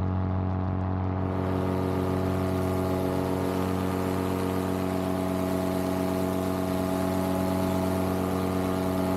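Vittorazi Moster 185 single-cylinder two-stroke paramotor engine and propeller running at a steady in-flight throttle, a constant drone that holds one pitch throughout.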